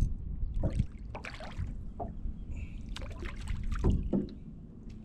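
Wind rumbling on the microphone in a small aluminium jon boat, with scattered knocks, clicks and light water splashes as a hooked crappie is brought aboard.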